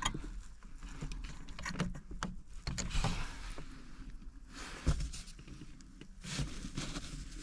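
Scattered small clicks and knocks, with a dull thump about five seconds in, from hands working in a skid steer's fuse and relay panel while a fuse is checked.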